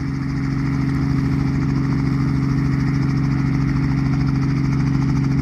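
Helicopter running on the ground at idle before take-off: a steady engine drone that grows a little louder in the first second or so.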